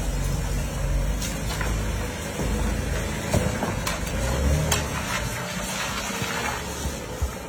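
Car wash running: a steady rush of spraying water with a low machinery rumble and a few knocks.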